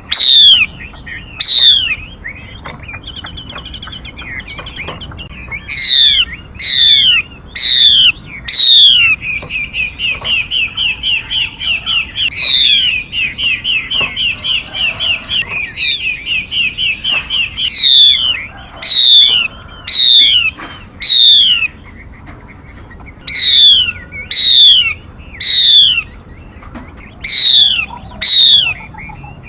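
Songbird calls from a bird-lure recording: short, loud whistles that each sweep steeply downward, given in quick runs of two to four. Between them, from about 9 to 17 seconds in, comes a fast, even trill of repeated notes.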